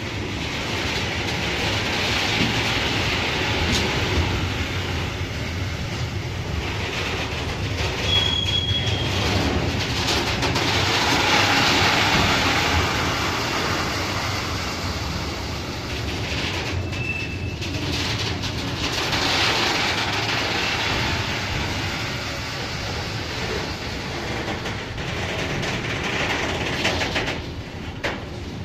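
A train running along the track: a steady rumble with wheel clatter on the rails, swelling and easing as it goes by, and two brief high wheel squeals, about eight and seventeen seconds in.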